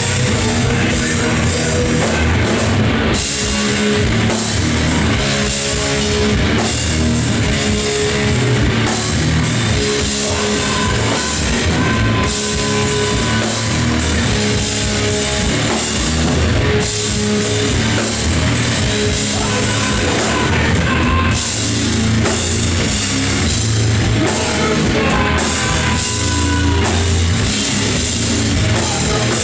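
Loud live noise-rock from a three-piece band: distorted electric guitar, bass guitar and a drum kit playing a heavy riff that repeats every second or two.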